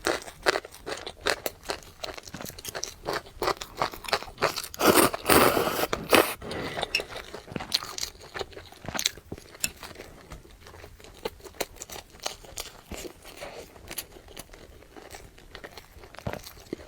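Close-miked eating: crunchy bites and chewing, heard as many sharp crackles, with a louder, noisier stretch about five seconds in.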